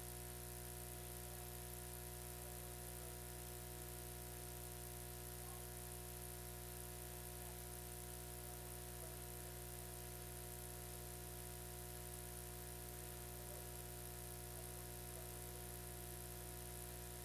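Steady electrical hum and buzz with a high hiss on an otherwise empty audio line, unchanging throughout.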